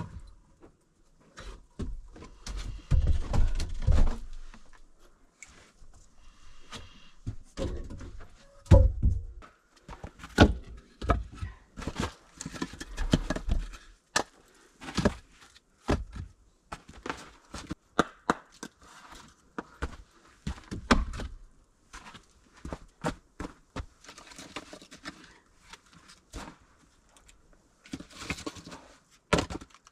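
Irregular wooden knocks and heavy thuds of firewood and other things being handled and set down in a small log hut.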